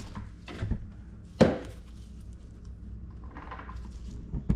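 A few knocks from tools and brake parts being handled during a front brake job, the loudest a single sharp knock about a second and a half in.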